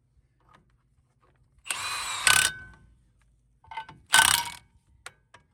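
A power wrench is tightening lug nuts onto a truck's wheel-hub adapter plate in two short bursts. The first comes a little under two seconds in and the second, louder and shorter, about four seconds in, with faint clicks between them.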